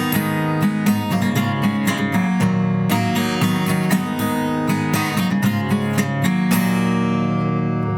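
Crafter ML-ROSE acoustic guitar strummed in steady chords with no singing, ending on a chord that is held and rings for about the last second and a half.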